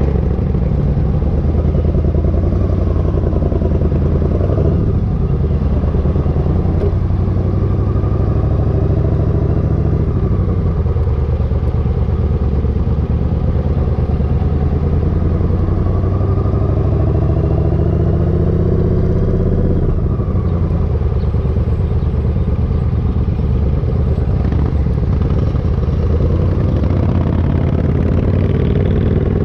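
Motorcycle engine running steadily on the road, its pitch rising and falling a few times with changes in speed.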